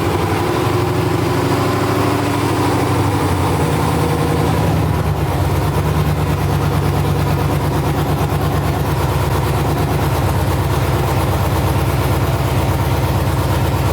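LS V8 engine in a swapped Toyota Cressida running steadily on its first start, very loud with no exhaust system fitted yet, with a choppy idle.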